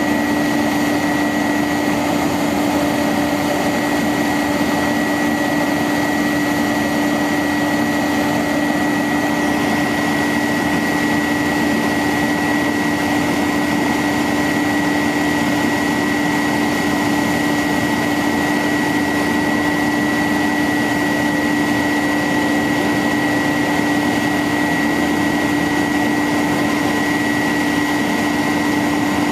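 1999 International 4900 bucket truck's engine running steadily, with a constant whine over the engine noise.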